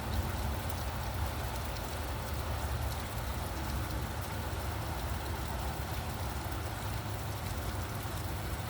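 Steady rain falling, with a constant low rumble of traffic underneath.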